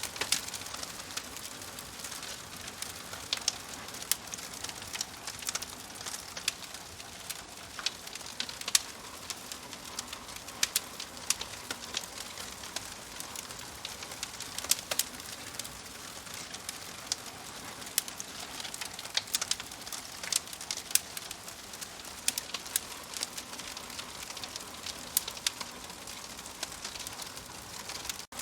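Wood fire in a fireplace crackling: a steady hiss with frequent sharp, irregular pops and snaps.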